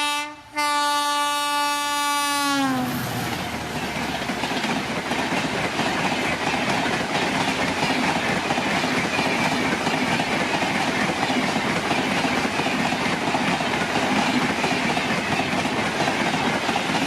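Express train passing at speed: the locomotive's multi-tone horn sounds, breaks off briefly just after the start, and drops in pitch as the engine passes about two and a half seconds in. Then the coaches go by with a steady rumble and clickety-clack of wheels over the rail joints.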